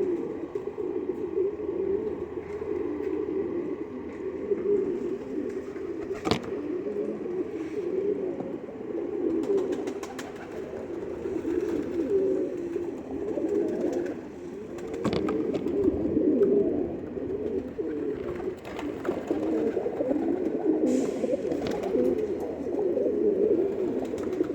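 A flock of domestic pigeons cooing continuously, many voices overlapping, with a couple of sharp clicks about six and fifteen seconds in.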